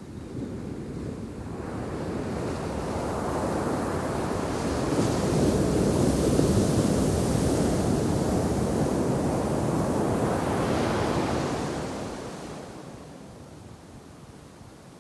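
Ocean shore-break surf: one wave's rushing wash builds over several seconds, stays loud through the middle, then dies away near the end.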